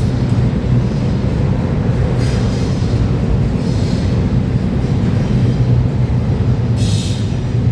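Freight train rolling past, with a steady heavy rumble of cars and wheels on the rails and brief high wheel squeals several times.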